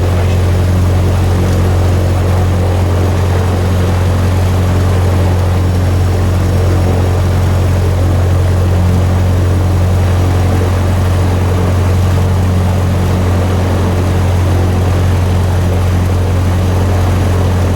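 Cessna 150's four-cylinder Continental O-200 engine and propeller running steadily at low power after start, heard from inside the cabin, with a deep even drone.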